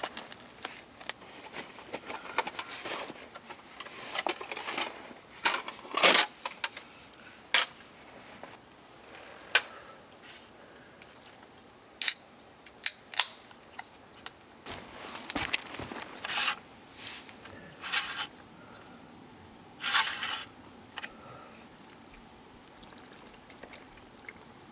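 Irregular clicks, knocks and rustling from objects being handled, with short quiet gaps between them, dying down for the last few seconds.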